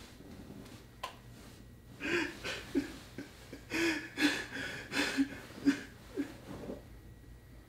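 A man laughing to himself in a string of short, breathy bursts, starting about two seconds in and dying away near the end. A single click sounds about a second in.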